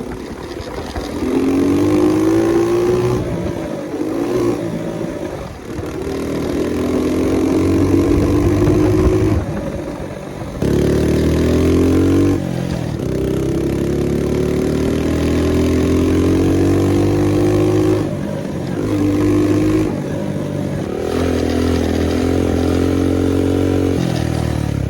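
Honda CT70 mini bike's small single-cylinder four-stroke engine pulling under way. Its pitch climbs steadily in several runs, each broken by a sudden drop, as when the rider shifts up or rolls off the throttle.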